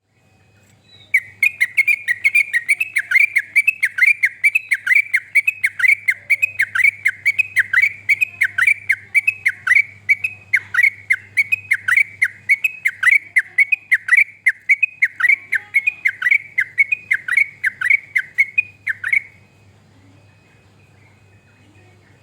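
Yellow-vented bulbul (trucuk) calling in a long, rapid series of short, downward-sliding notes, about two or three a second. The series starts about a second in and stops abruptly near the end.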